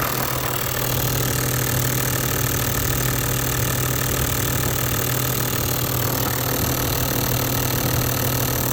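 Toyota 1HD-FTE 4.2-litre turbo-diesel straight-six idling steadily.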